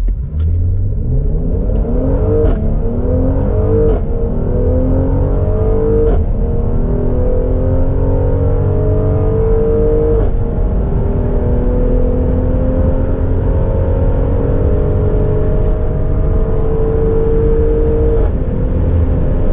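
Mercedes-AMG GLC43 Coupe's 3.0-litre twin-turbo V6 under full-throttle acceleration from a standstill, heard from inside the cabin. The engine note climbs through each gear and drops back at five upshifts, the gears growing longer as speed builds.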